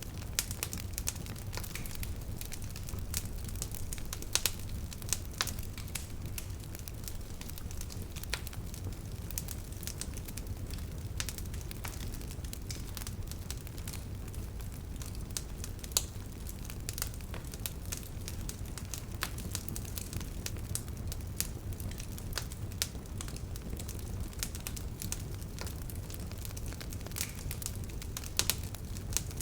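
Wood bonfire crackling, with frequent sharp pops and snaps over a steady low rumble.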